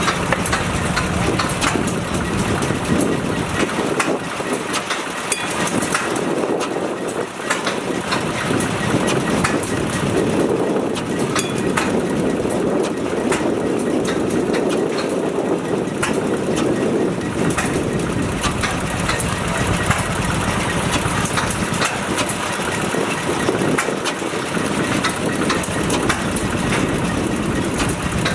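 Vintage Clutterbuck stationary oil engine running steadily, with a constant busy clatter of knocks and clicks.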